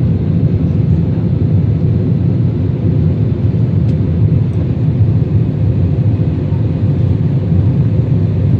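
Steady low roar of a jet airliner's engines and rushing air, heard from inside the passenger cabin during the climb after takeoff.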